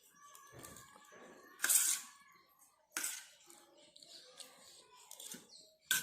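Eating sounds: cutlery clinking and scraping on a plate, three sharp strikes, the loudest a short scrape about two seconds in, another at three seconds and one at the very end, over a faint steady hum.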